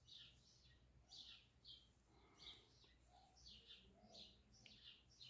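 Near silence with a faint bird chirping in the background: short, high, slightly falling chirps repeated irregularly, about two a second.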